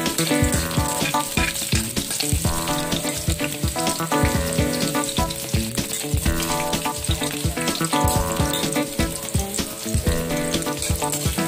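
Chopped garlic and sliced onion sizzling and crackling in hot oil in a wok, with background music playing underneath.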